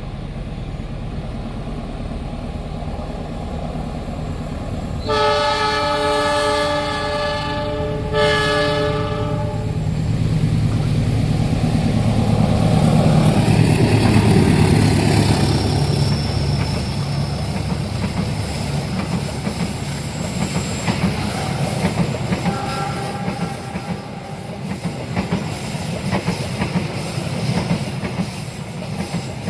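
A passenger train approaches and passes. The locomotive's chord horn sounds one long blast about five seconds in and a shorter one right after. The engine rumble builds to its loudest as the locomotive goes by, then the carriages clatter over the rail joints with a steady clickety-clack.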